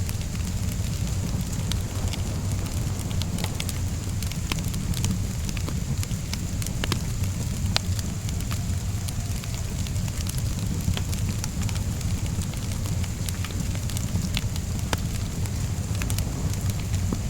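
Wood fire crackling, with many scattered sharp pops and snaps over a steady low rumble, mixed with the even hiss of rain.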